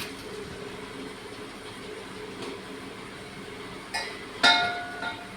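Talking parrot giving a short pitched call about four and a half seconds in, just after a fainter note, over a steady low hum.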